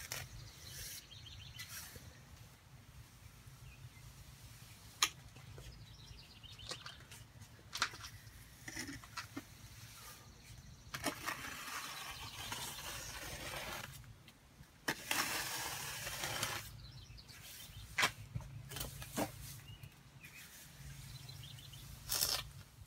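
Steel finishing trowels scraping and smoothing a wet mortar-mix skim coat over concrete, in intermittent swipes with a few sharp clicks, over a steady low rumble.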